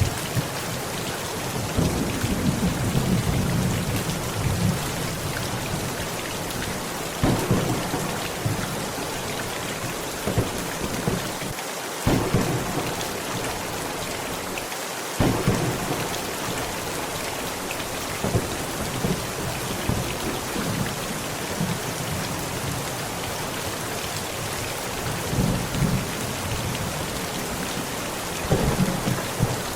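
Heavy rain pouring steadily on a tent, with several rolls of thunder, a few of them starting suddenly.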